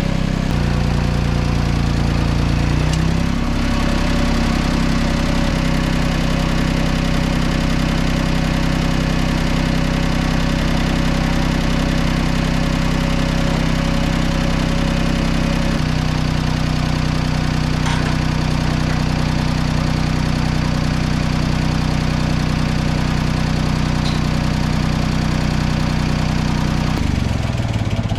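1964 Ford 2000 tractor engine running steadily, its speed stepping up about three seconds in and shifting again around the middle and near the end.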